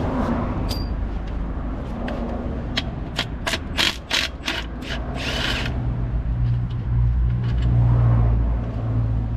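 Hand tools on metal: a quick run of about eight sharp knocks, roughly three a second, then a short hiss and a steady low hum that grows louder.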